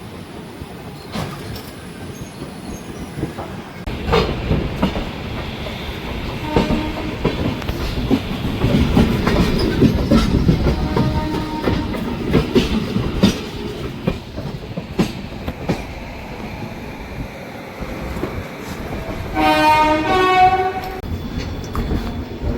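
Express train running on the rails: a steady rumble with the clickety-clack of wheels over rail joints, getting louder about four seconds in. Near the end, a train horn sounds briefly.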